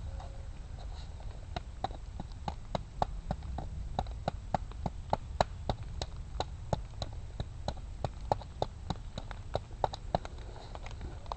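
Hardwood fire crackling, with sharp, irregular pops and snaps a few times a second over a steady low rumble.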